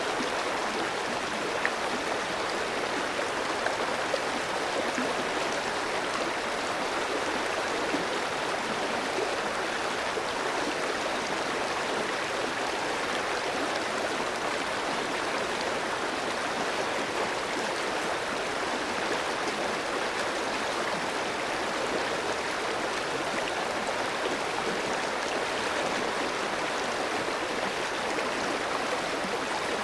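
Clear stream of water running over rocks: a steady rushing and babbling with small splashes flickering through it.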